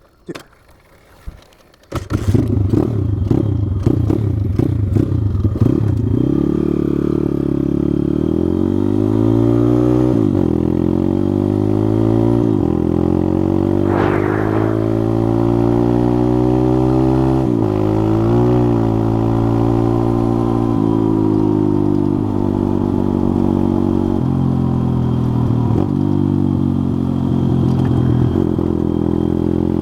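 Pit bike engine coming in abruptly about two seconds in, then running under load as the bike rides off. The revs climb and drop again and again as it goes up through the gears.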